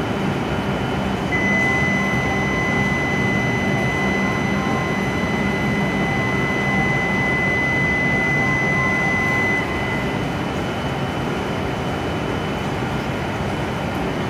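Steady hum of a stationary W7-series Shinkansen trainset and the station around it, while a single steady high electronic tone sounds for about eight seconds, starting about a second in and then cutting off.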